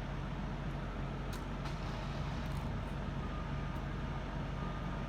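Steady city street noise with the low, even hum of idling vehicles and a few faint clicks.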